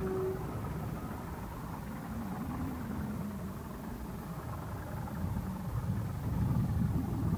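Low, uneven rumble of a distant diesel train running away out of sight, swelling a little near the end.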